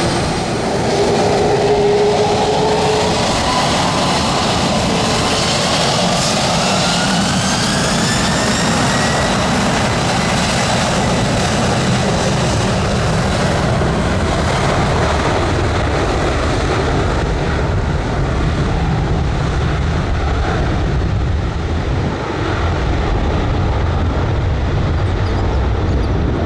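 Jet aircraft engines spooling up with a whine that rises in pitch over several seconds, then a steady loud roar as they run at high thrust, typical of a takeoff run.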